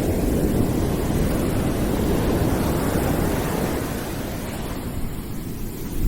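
Continuous deep rushing noise with no tones, heaviest in the low end, like brown noise or distant surf. It swells gently and eases off about four seconds in.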